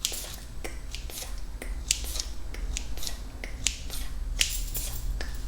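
Close-miked ASMR mouth sounds: wet tongue and lip clicks and pops coming in an irregular stream, a few each second.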